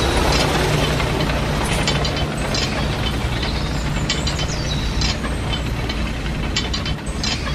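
Small electric motor of a miniature model machine running steadily, with a low hum and scattered clicks and rattles from its gears and moving parts.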